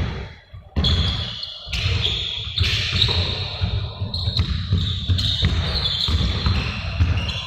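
A series of sudden thuds, roughly one a second, echoing in a large room.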